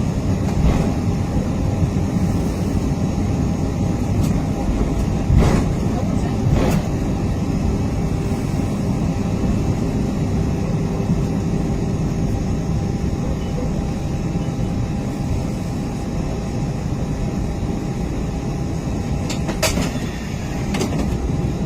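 Steady engine and airframe rumble inside the cabin of an Airbus A320-232 with its IAE V2500 engines running, carrying a faint steady hum. A few short knocks sound, twice in the first third and twice near the end.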